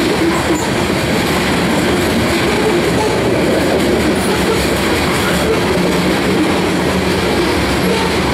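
Covered hopper cars of a freight grain train rolling past, their steel wheels on the rails making a loud, steady rolling noise.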